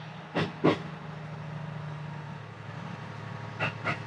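Interior running noise of the Resort View Furusato, a JR East HB-E300 series hybrid diesel railcar, pulling out of a station: a steady low engine hum heard from inside the carriage. Two pairs of sharp clacks, one about half a second in and one near the end, are its wheels passing over rail joints or points.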